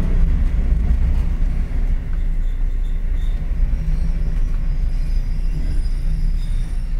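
Rumble of a Kotoden 1080-series electric train heard from inside the driver's cab as it moves slowly through a station. The rumble is heaviest in the first half second, then eases to a steadier, lighter level, with faint thin high tones in the second half.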